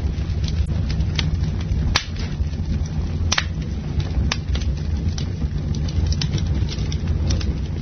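A campfire burning: a steady low rumble of flames, with scattered sharp crackles and pops from the wood. The loudest pops come about two and three seconds in.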